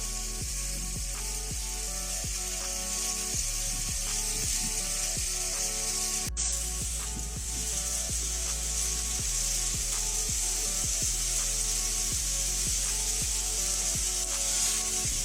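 Candle ice: masses of loose needle-like ice crystals rubbing and clinking against each other as the ice shifts and breaks apart, a dense steady tinkling hiss with a brief break about six seconds in. Soft background music runs under it.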